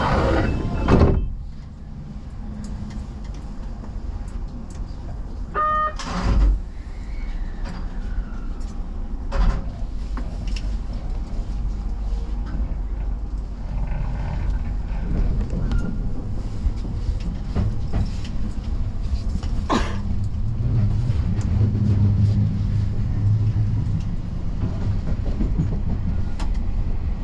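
Keio Inokashira Line express train running on the line: a steady low rumble of wheels on rails with about four sharp knocks, and a brief tone about six seconds in.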